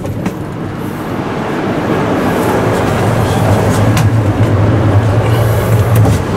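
Running noise of an E6 series Shinkansen heard in the vestibule and gangway between cars: a loud steady rumble that grows louder, with a strong low hum setting in about halfway through. A couple of sharp clicks stand out near the middle and near the end.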